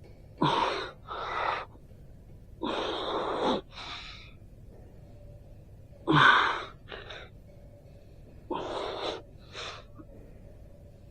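A person breathing hard in short, loud, gasping breaths: four pairs of breaths, each pair a longer breath followed by a shorter one, a couple of seconds apart.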